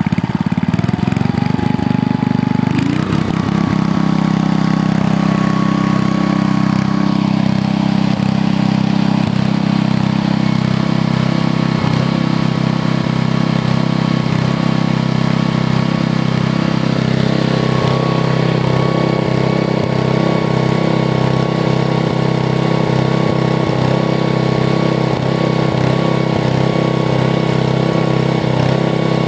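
Old Briggs & Stratton flathead single-cylinder small engine speeding up over the first three seconds, its pitch rising, then running steadily at the higher speed.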